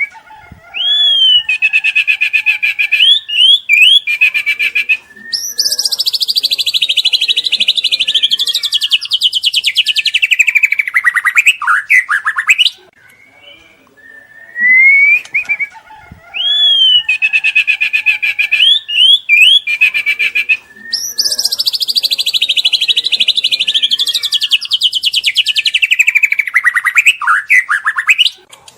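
Juvenile white-rumped shama (murai batu) singing loudly in fast trills, rapid repeated notes and rising and falling whistled phrases. The same song sequence plays through twice, each pass lasting about fourteen seconds.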